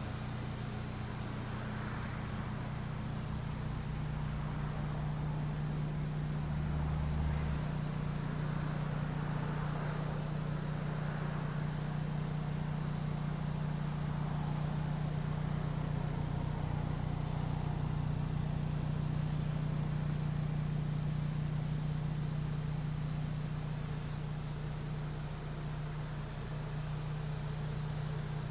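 2016 Audi S3's turbocharged four-cylinder engine idling, a steady low hum.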